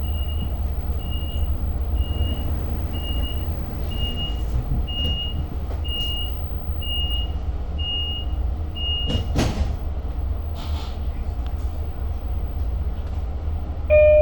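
Door-closing warning beeps on a Long Island Rail Road train: ten high beeps, about one a second, over the train's steady low rumble. A sharp knock follows about nine seconds in as the doors shut. A brief, loud tone with several pitches sounds right at the end.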